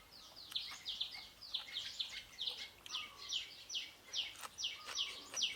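Small birds chirping: a rapid, continuous run of short falling chirps, several a second, with a few faint clicks among them.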